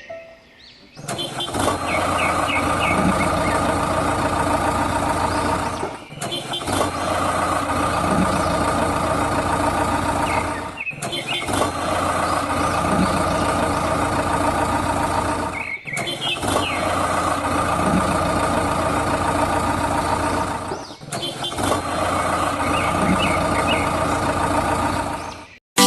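Engine sound effect, a steady running-engine clip about five seconds long played five times in a row, with a short dip each time it restarts.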